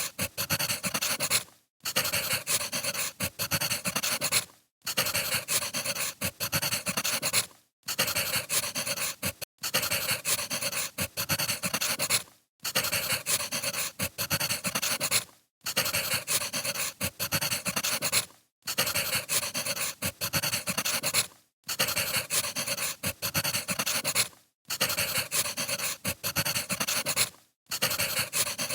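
Crackling wood fire: dense popping and crackling over a hiss, a short recording looped about every three seconds with a brief silent gap between repeats.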